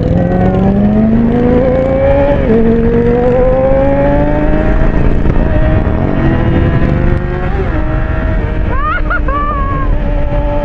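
Motorcycle engine accelerating hard from a rolling start in a roll race. The pitch climbs, drops at a gear shift about two and a half seconds in, and climbs again. About seven seconds in it eases off and settles to a steady cruise.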